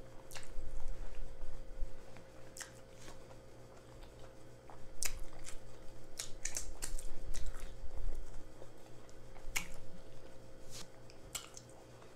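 Close-miked chewing of a jalapeño cheddar sausage in a bun, with irregular wet lip smacks and clicks, a cluster of them near the middle.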